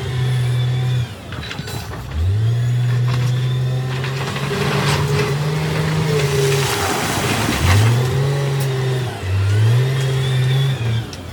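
Heavy earthmoving machine's diesel engine revving up again and again under load, about five times: each time the pitch rises, holds for a second or more, then drops away. A rushing noise runs behind it.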